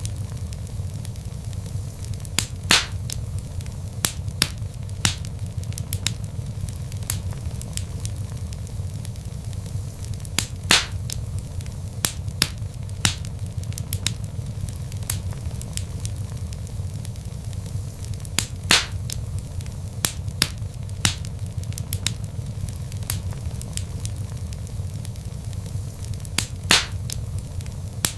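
Wood fire crackling in a fireplace: a steady low rumble of flames with frequent sharp pops and snaps from the burning logs, a few of them much louder than the rest.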